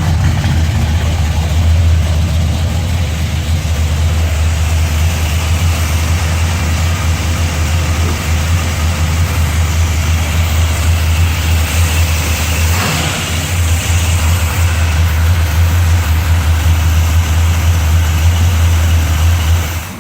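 Chevelle's 327 small-block V8 idling steadily through a 2½-inch Jegs exhaust with turbo mufflers, with a deep, even exhaust note. It dips briefly about two-thirds of the way through and cuts off at the very end as the engine is switched off.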